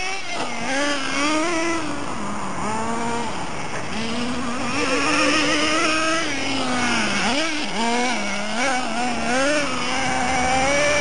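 Small two-stroke nitro engine of a 1:10 HSP Tyrannosaurus RC monster truck running, its pitch rising and falling again and again as the throttle is opened and eased off.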